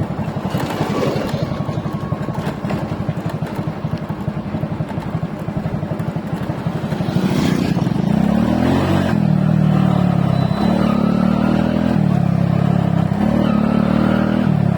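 Motorcycle engine running under way, with wind noise. From about halfway in it gets louder and its pitch rises and falls several times as the throttle is opened and eased.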